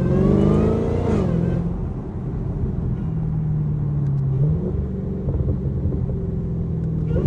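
Dodge Charger SRT Hellcat Redeye's supercharged 6.2-litre Hemi V8 under load, its pitch rising for the first second then falling away, running steady through the middle with a small step up about halfway, and climbing again near the end.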